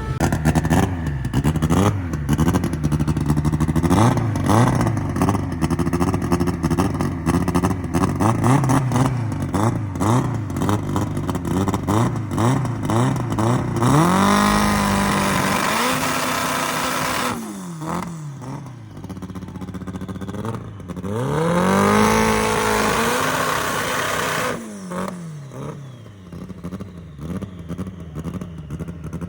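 Car engine revved hard, first in quick repeated blips with crackling from the exhaust, then in two long revs that climb, hold near the top and drop back.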